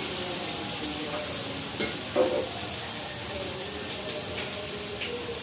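Food sizzling in hot oil in a wok on a gas burner while a spatula stirs it. The spatula knocks and scrapes against the pan a few times, loudest about two seconds in.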